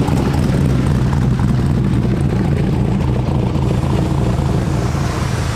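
A loud engine running steadily close by, with a fast, even low pulsing.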